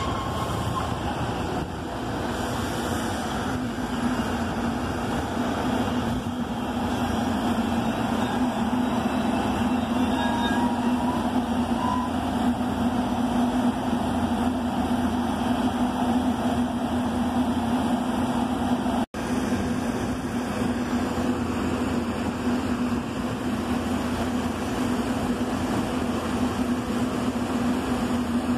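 SEPTA Silverliner IV electric multiple-unit train running close by along the platform: a steady rumble with a low steady drone that comes in about two seconds in. The sound cuts out for an instant about two-thirds of the way through.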